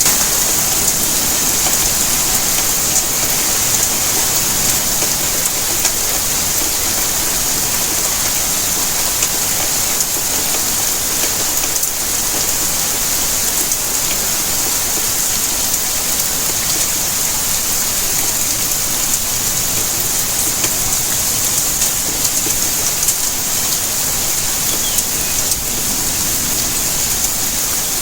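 Steady rainfall: a constant hiss of rain with scattered faint drop ticks.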